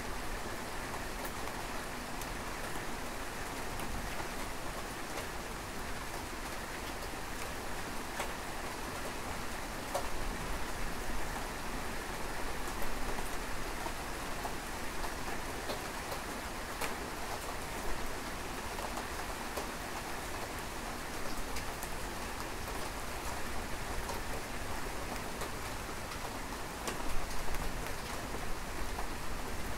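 Steady rain falling, with individual drops ticking on a surface now and then. It swells briefly louder about a second before the end.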